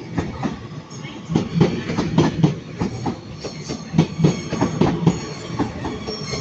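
Northern class 331 electric multiple unit running past, its wheels clattering over rail joints and points in a rapid, uneven series of clacks. A thin high wheel squeal joins about halfway.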